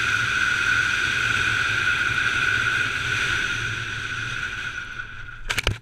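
Motorcycle engine running at steady high revs with a constant whine, easing off slightly near the end, followed by a quick cluster of sharp knocks just before it cuts off.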